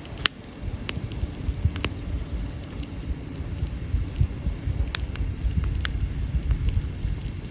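Wood fire crackling, with sharp pops roughly once a second over a steady low rumble.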